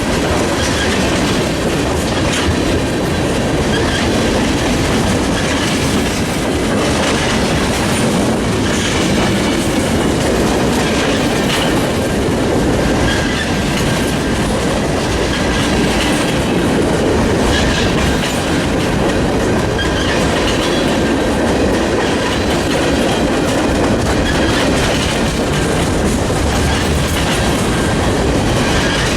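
Freight train cars rolling past close by, with steady wheel clatter over the rail joints and a faint wheel squeal.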